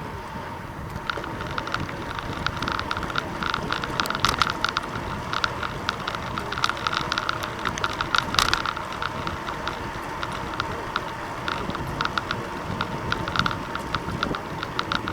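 Rapid, uneven clicking and ticking from a moving bicycle, over a low rumble of wind and road noise.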